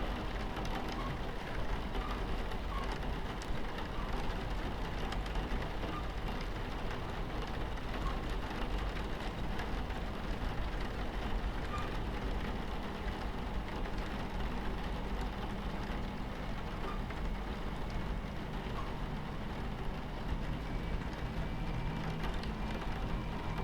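Steady low rumble of a train running on its tracks, heard from inside the carriage, with rain pattering against the window.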